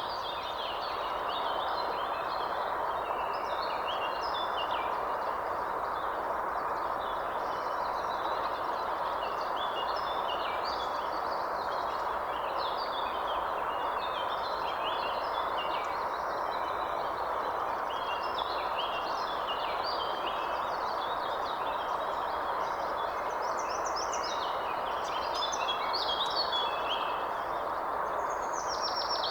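Many small birds chirping and calling in quick, overlapping notes over a steady rushing background noise.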